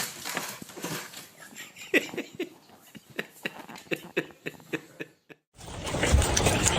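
A dog making a quick, irregular run of short noises, several a second, some with a brief pitched note. A cut near the end brings in a loud steady rumbling noise.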